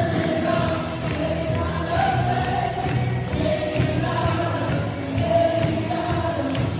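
Choir singing gospel worship music, a melody of held notes over instrumental backing.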